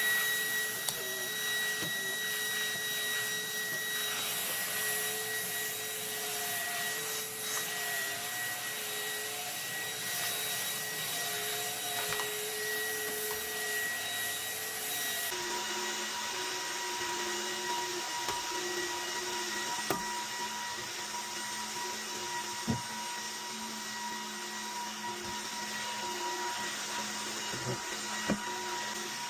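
Dreame H14 Pro wet-dry floor washer running with a steady motor whine and hiss. Its tone changes abruptly about halfway through, and a few short knocks come in the second half.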